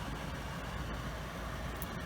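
Air purifier fan running steadily on its strong setting, a constant rushing hum.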